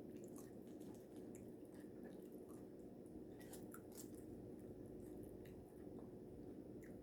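Faint chewing of a mouthful of taco salad, soft scattered wet clicks over a low steady room hum.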